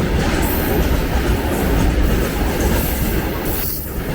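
Long freight train rolling past at speed, with a steady loud rumble and the clatter of wagon wheels on the rails. There is a brief dip in the hiss near the end.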